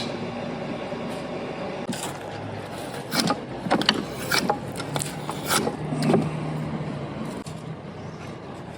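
A run of sharp knocks and rattling clatter as an object is worked apart by hand, the hits bunched in the middle few seconds, over a steady low hum.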